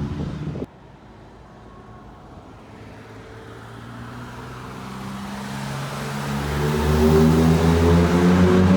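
BMW 528i with a Simons aftermarket exhaust: its loud exhaust note cuts off abruptly under a second in. Then the car's exhaust note grows steadily louder over several seconds as it approaches, and the engine's note comes through strongly near the end.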